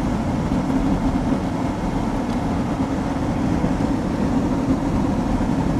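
Steady road and engine noise inside a moving car's cabin, a constant low drone with no breaks.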